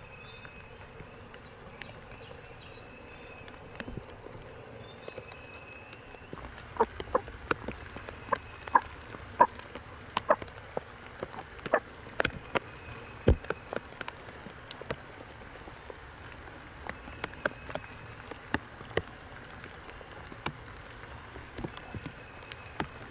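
Irregular sharp taps of raindrops, several a second, starting about six seconds in, over a faint steady high trill.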